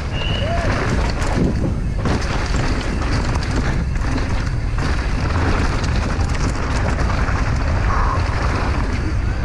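Wind buffeting a GoPro microphone on a downhill mountain bike at race speed, over a steady rumble and clatter of tyres on a dry, loose trail and the bike's chain and suspension rattling over rough ground.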